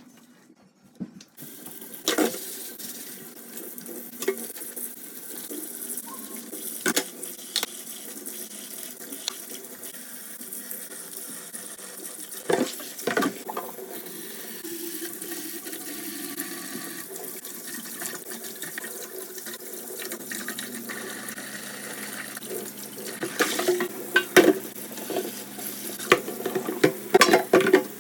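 Tap water running into a sink, with dishes and pans knocking and clinking now and then, more often near the end.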